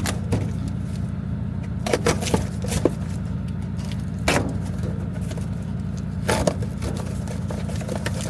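1996 Honda Acty mini truck's small three-cylinder engine idling steadily through a freshly fitted aftermarket exhaust, with a low rumble. Over it come sharp clicks and knocks from a package being handled and opened.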